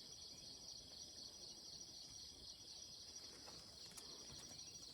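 Faint, steady, high-pitched chorus of calling insects with a fast pulsing buzz, with a couple of faint ticks about four seconds in.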